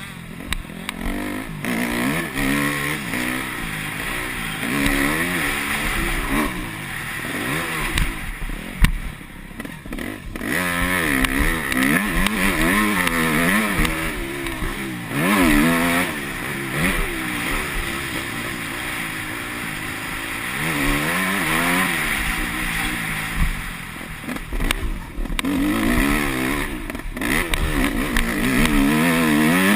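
Yamaha YZ250F single-cylinder four-stroke motocross engine being ridden hard, its pitch rising and falling again and again as the throttle is opened and shut through the track, with a few brief drops when the throttle is cut. A sharp knock comes just under nine seconds in.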